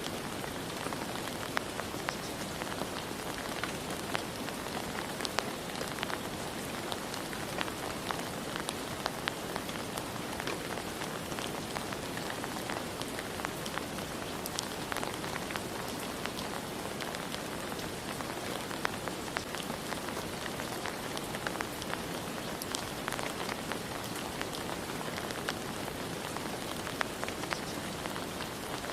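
Steady rain falling, an even hiss with many scattered sharp ticks of individual drops striking a surface.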